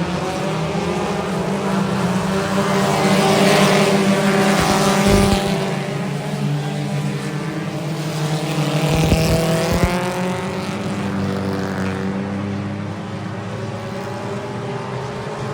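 Race car engines running at speed, the sound swelling twice as cars come past, about four seconds in and again about nine seconds in.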